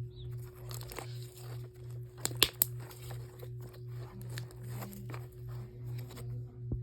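Slime being squished and stretched by hand, with many small crackles and pops and one sharper pop about two and a half seconds in, over a steady low pulsing hum.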